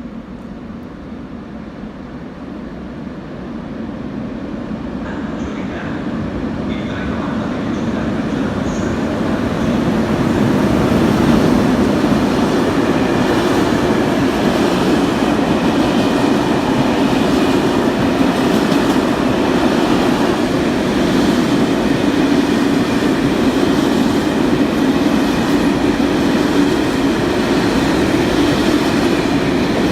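A train running through a railway station: its rumble grows louder over the first ten seconds or so as it approaches, then holds loud and steady as the carriages roll past.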